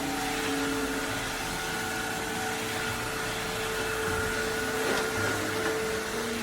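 Cordless wet-dry hard-floor vacuum running steadily: an even rush of suction with a steady motor whine over it.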